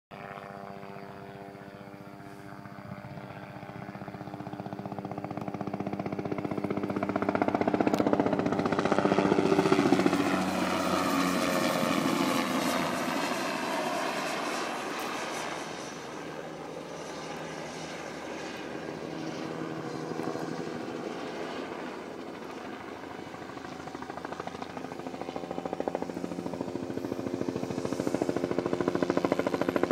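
Bell 206 helicopter coming in to land, its turbine and main rotor growing louder to a peak about eight to ten seconds in, where the pitch slides lower. It then runs steadier and builds again near the end, with the rotor's beat coming through.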